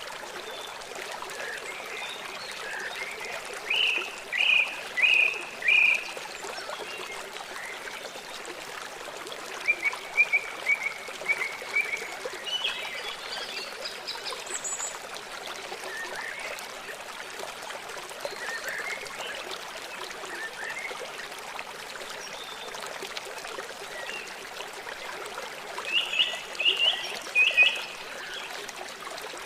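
Small songbirds chirping in quick runs of short, repeated chirps, with clusters about four seconds in, around ten to fifteen seconds in, and near the end, over a steady background hiss.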